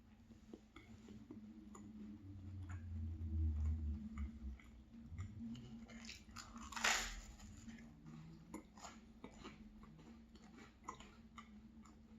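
Close-miked chewing of crunchy toasted maple cinnamon bread, with many small crunches and a louder, longer crunch about seven seconds in.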